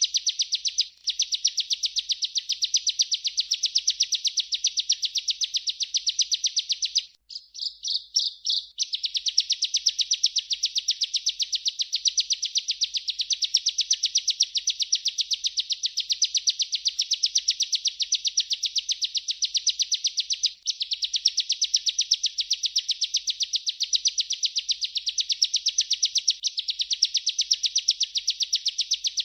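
Bar-winged prinia (ciblek) singing its rolling song: a long, continuous trill of rapid repeated high notes. It breaks off about seven seconds in for a couple of seconds of a few separate notes, then rolls on.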